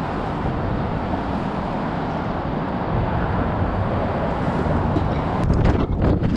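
Strong wind rushing over the microphone and buffeting it, with steady road traffic noise beneath, and a few sharp knocks near the end.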